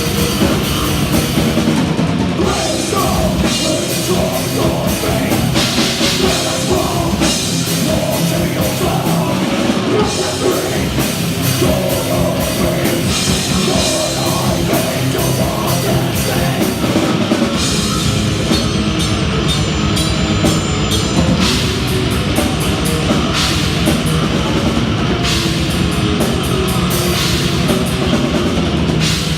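Death metal band playing live at full volume: distorted guitars, bass and fast, dense drumming. About 17 seconds in, the low end grows heavier.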